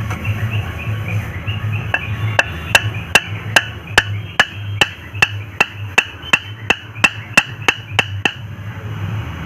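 Hammer striking repeatedly in the workshop: a regular series of about eighteen sharp, ringing blows that starts about two seconds in, speeds up slightly to nearly three a second, and stops near the end, over a steady low hum.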